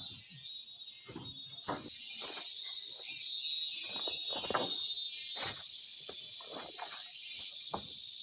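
Steady high-pitched chorus of forest insects, with irregular close knocks and rustles about two a second over it.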